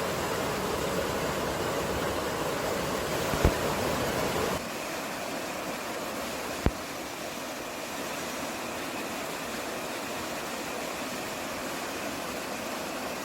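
Steady rushing noise of a mountain field recording, wind and running water. About four and a half seconds in it cuts abruptly to a thinner, quieter hiss. There are two sharp clicks, one just before the change and one two seconds after it.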